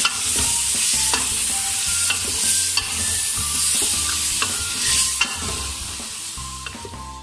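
Mutton and bottle gourd sizzling in an aluminium pressure cooker while a wooden spoon stirs it, with scattered scrapes and knocks of the spoon against the pot. The sizzle dies down over the last couple of seconds.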